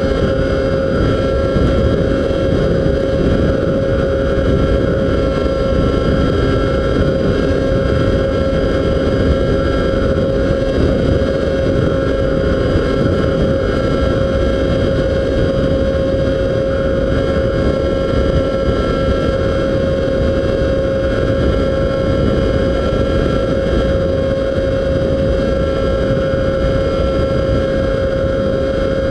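Motor and propeller of a radio-controlled FPV model plane, whining at a steady pitch, with strong wind buffeting the microphone.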